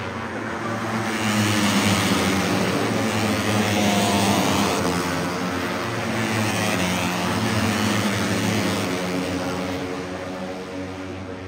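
Moto3 race bikes' 250 cc single-cylinder four-stroke engines passing at high revs one after another, each engine note swelling and falling away in pitch as it goes by. The sound fades near the end.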